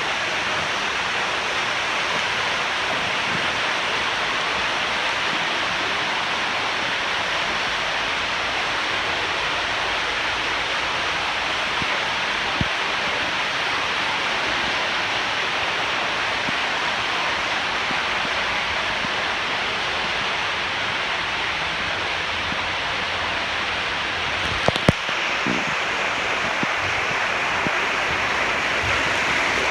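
Water rushing steadily through a water slide. Near the end there are a few sharp knocks, after which the rush sounds brighter.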